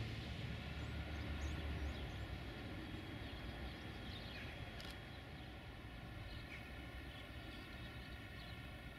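Low rumble of a distant train, strongest in the first couple of seconds and then slowly easing off, with small birds chirping over it.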